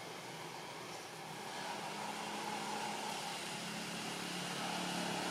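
A steady engine hum, like a motor vehicle running nearby, growing louder from about a second and a half in.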